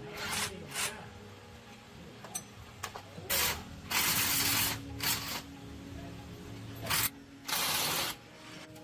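Compressed-air hissing in about seven separate bursts, most short and one near the middle lasting close to a second, typical of an air-powered spray or blow gun being triggered on and off.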